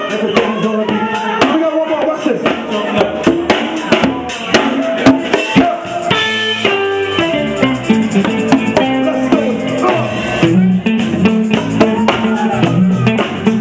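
A live soul band playing a stretch without vocals, with guitar, drum kit and bass.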